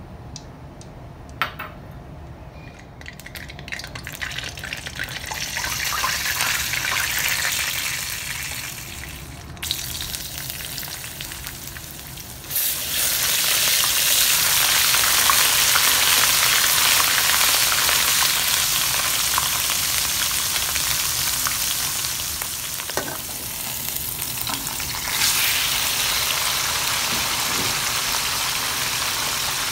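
Hot cooking oil in a wok, sizzling gently at first, then frying chopped garlic loudly with a wooden spoon stirring it. The sizzle starts suddenly about twelve seconds in and jumps louder again about 25 seconds in as raw chicken pieces go into the oil.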